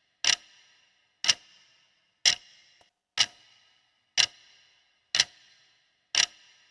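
Countdown timer sound effect: a clock ticking once a second, seven sharp ticks, each with a short ringing tail. It marks the time allowed to answer a quiz question.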